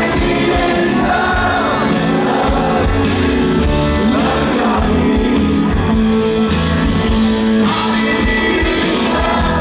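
Rock music with a lead singer, played loud and steady.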